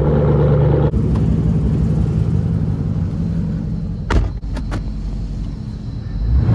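SRT car's engine running steadily while driving, a low drone that drops back briefly about a second in and eases off toward the end. A quick group of three sharp clicks comes a little past the middle.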